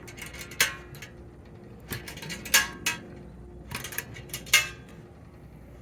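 Gravi-Stil water distiller and gravity filter being handled and set down: about half a dozen sharp clinks and knocks of its parts, the loudest about two and a half and four and a half seconds in.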